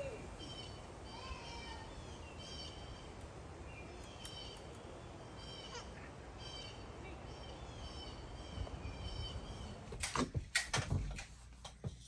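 A bird calling in short, high, repeated phrases, about one a second, over a low steady background rumble. Near the end there is a brief burst of sharp knocks and clatter.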